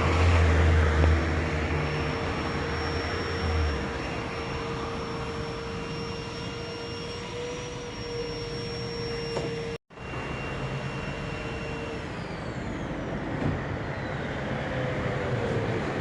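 Car-wash equipment running: a steady motor whine over a wide hiss, with a deep rumble in the first few seconds. The sound drops out briefly about ten seconds in.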